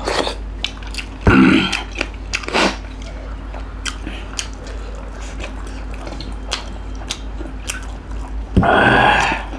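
Close-up eating sounds: biting and chewing into spicy duck curry and chicken wings eaten by hand, with many small wet mouth clicks. A louder breathy sound comes about a second in and again near the end, over a steady low hum.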